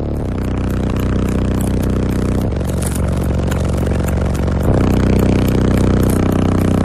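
Bass-heavy music played very loud through a car audio system's six 12-inch subwoofers: low sustained bass notes that shift pitch a few times, with rattling and distortion on top.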